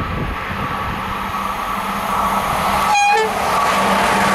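Electric locomotive hauling a passenger train approaching, its running noise growing louder as it nears, with a steady hum. About three seconds in, the locomotive gives a very short horn toot.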